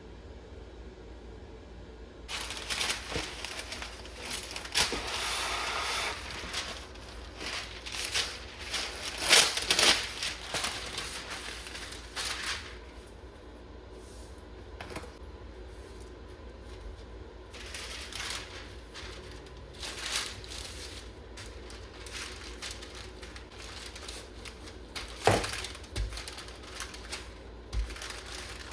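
Handling noises: crinkling and rustling with scattered clicks and light knocks, busiest in the first half, then sparser, with one sharper knock near the end.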